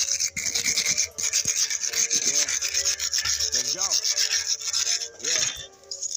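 Wire brush scrubbing a fresh weld bead on steel in quick back-and-forth strokes, with a short pause about five seconds in.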